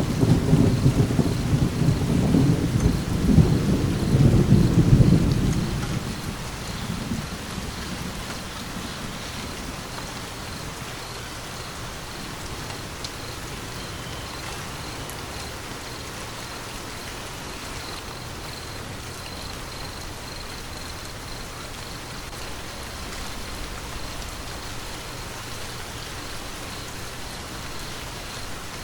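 Steady rain falling, with a rumble of thunder at the start that dies away over the first six seconds or so.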